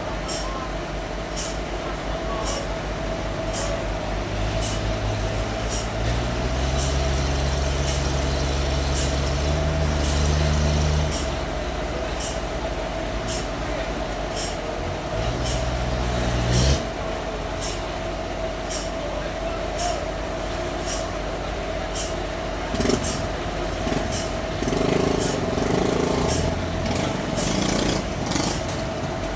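Sawmill machinery running with a steady whine and a regular faint ticking. A heavier low engine drone swells in twice, for about five seconds from six seconds in and again briefly around fifteen seconds.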